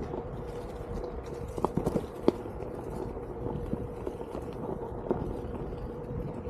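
Onewheel GT riding along a trail: its hub motor gives a steady whine under rumbling tyre and wind noise. A few sharp knocks come about two seconds in, with lighter clicks scattered after.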